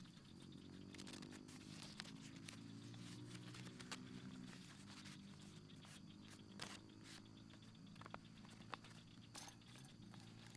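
Faint, scattered light clicks and rustles of small objects being handled, over a low, steady hum.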